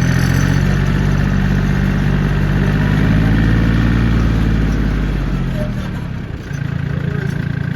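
John Deere 770 compact tractor's three-cylinder diesel engine running at raised revs. About five seconds in the revs drop, and it settles to a steady lower speed.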